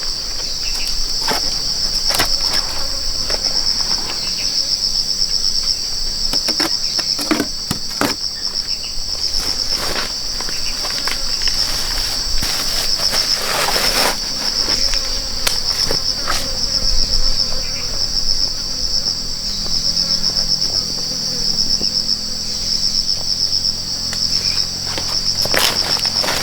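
A steady, pulsing high trill from a chorus of forest insects, with irregular knocks scattered through it from a blade chopping across a large bamboo shoot.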